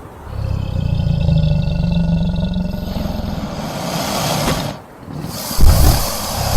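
Prehistoric-creature sound effects from a documentary: a low rumbling growl for about three seconds, then a breathy hiss that cuts off, then a loud low thud near the end.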